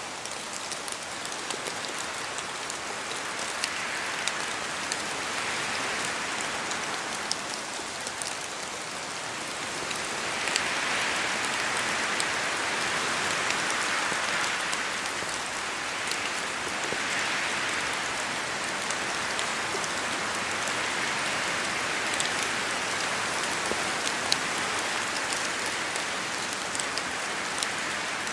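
Steady rain in a forest, with scattered drops falling from the trees. The hiss swells and eases in slow waves as the wind gusts, and grows louder about ten seconds in.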